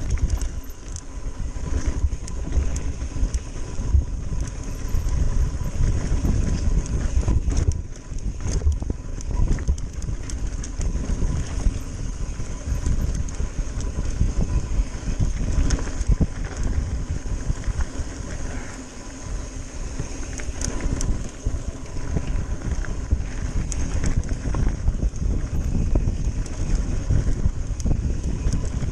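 Mountain bike ride on a downhill trail: wind buffeting the microphone over steady tyre rumble and rattling from the bike, with frequent small knocks as it runs over bumps.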